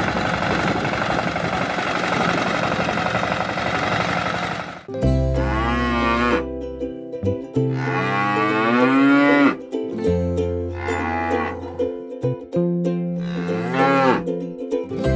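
Animated tractor's engine running, then cutting off about five seconds in. Four long farm-animal calls follow, each bending in pitch.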